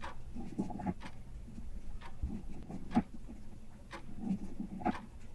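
Light, irregular taps and clicks of rocks being handled and painted on a tabletop, about one every second, with the sharpest knock about three seconds in.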